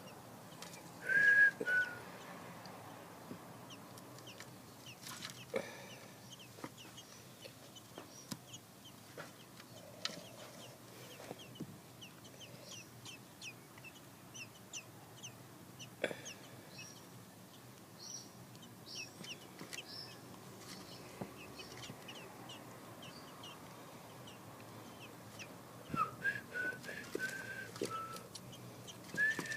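A black bird feeding: many short, soft chirps and a few small clicks, with clear whistled notes about a second in and again near the end.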